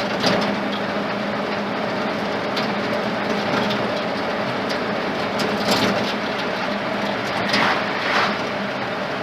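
Truck with a Ford flathead engine driving along: the engine's steady hum under road and cab noise, with a few brief rattles and knocks, the clearest about six and eight seconds in.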